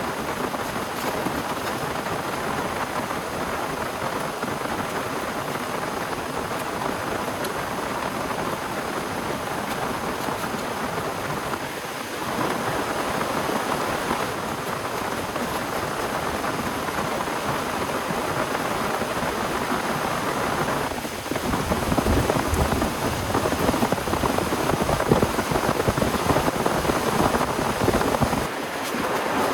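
Heavy rain falling steadily in a thunderstorm. About two-thirds of the way through it grows louder and deeper, with thunder rumbling, then eases shortly before the end.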